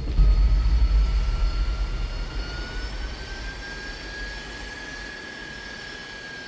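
Jet airliner engines: a loud low rumble that starts suddenly and fades over about five seconds, under a steady turbine whine that rises slowly in pitch, then holds.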